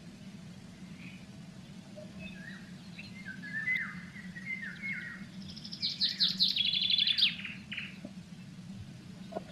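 Blue tit calling with short falling notes, then singing loudly: high thin notes followed by a fast, even trill. The footage is sped up 1.3 times, which raises the pitch. A steady low hum runs underneath.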